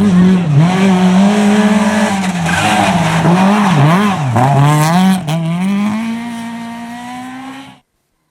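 Rally car engine running hard, its pitch dropping and climbing again several times in the first four and a half seconds, then held steady and fading away as the car goes off into the distance, before the sound cuts off suddenly near the end.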